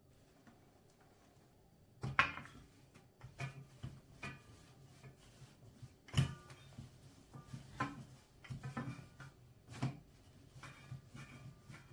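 Light knocks and clinks of kitchen items being handled and set down, starting about two seconds in, some with a brief ringing.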